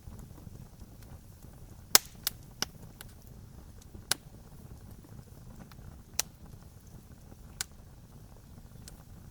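Campfire crackling: a low steady rumble of burning wood under sharp pops, a loud cluster of three about two seconds in, then single pops every second and a half to two seconds.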